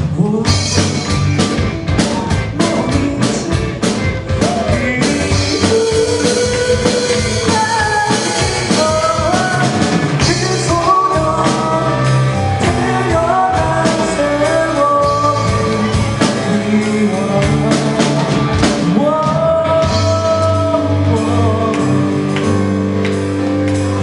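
Amateur rock band playing live, with a drum kit and a singer's voice carrying the melody over the band.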